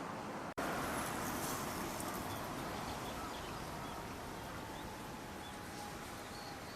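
Steady rush of flowing river water, with faint short bird chirps now and then from about two seconds in. The sound drops out for an instant about half a second in.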